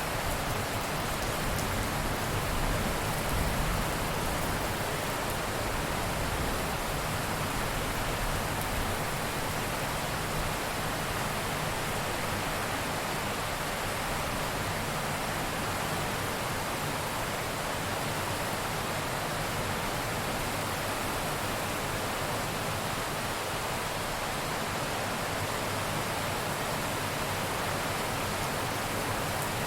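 Steady heavy rain hissing evenly, with a low rumble of thunder that dies away in the first few seconds.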